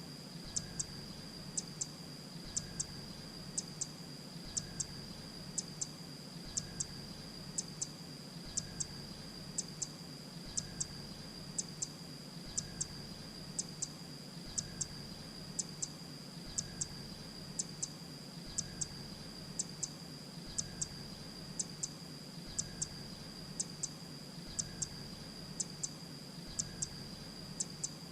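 Grey-breasted prinia singing: short, thin, high notes in quick pairs and triplets, repeated about once a second.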